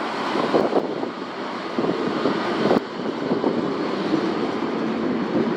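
701 series electric train running through a station: a steady rumble and rush of wheels on the rails, with a couple of sharp clacks.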